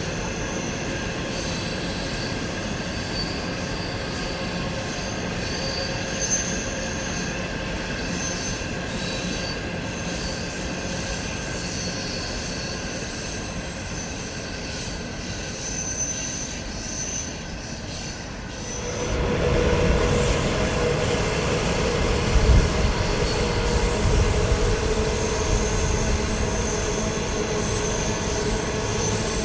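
A train running on the track: continuous rolling rail noise with thin high steady tones over it. About two-thirds of the way in, it grows louder and fuller, with a deeper rumble.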